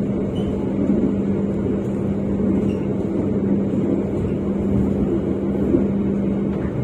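KA Argo Bromo Anggrek passenger coach running at speed, heard from inside: a steady rumble of wheels on rails with a constant low hum underneath and a few faint knocks. The rider says the rails on this stretch seem to be at fault for the rough, noisy ride.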